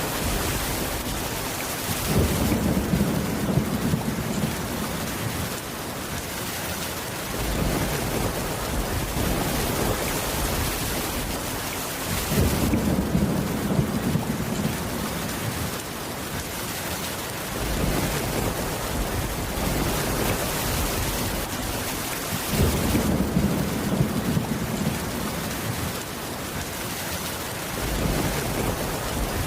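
Steady rain with low thunder rumbling in three long swells, roughly ten seconds apart.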